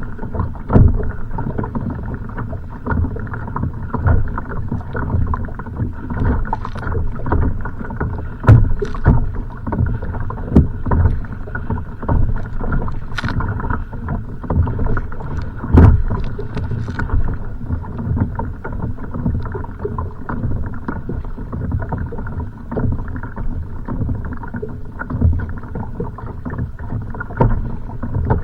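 Choppy water splashing and knocking against a kayak's hull in strong wind, in irregular bursts with a few heavier knocks, over wind rushing on the microphone.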